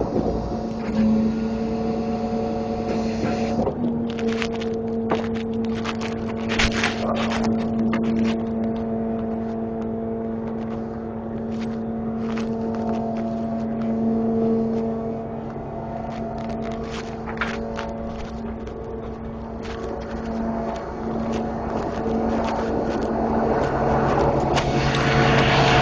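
Grapple truck engine running steadily at constant speed, with scattered sharp knocks and clunks. Near the end a lower tone comes in and the sound grows louder.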